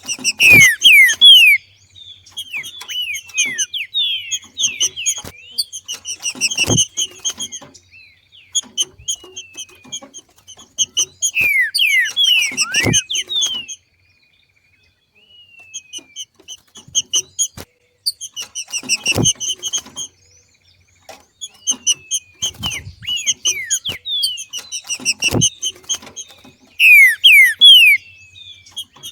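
Green-winged saltator (trinca-ferro) female giving its 'macheado' chatter: bursts of quick falling whistled notes, repeated in short phrases every second or two with brief pauses. A sharp knock comes about every six seconds.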